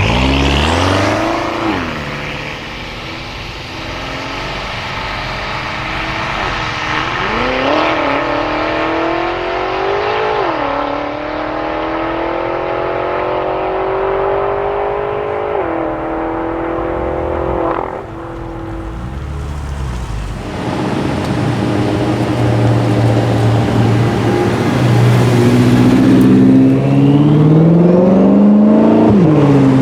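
BMW sports car engine accelerating hard under load. Its pitch climbs and drops at two quick upshifts, then holds a high steady note before falling away. In the second half an engine climbs in pitch again and grows louder near the end.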